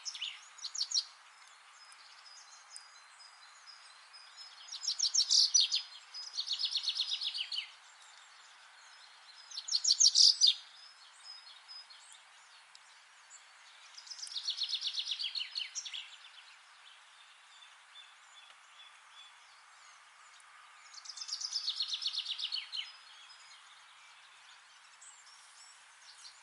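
A songbird singing short phrases of rapid repeated notes, each a second or two long and slightly falling, about five phrases a few seconds apart, over a steady faint hiss of outdoor background noise.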